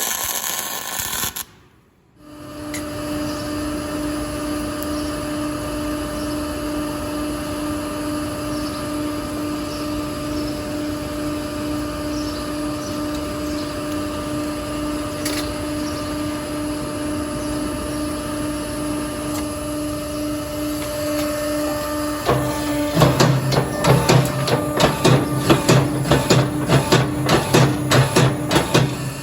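A workshop machine's motor humming steadily at one pitch, joined about three quarters of the way through by a fast run of sharp strikes, about four a second, that carry on to the end. A short loud rush of noise comes right at the start.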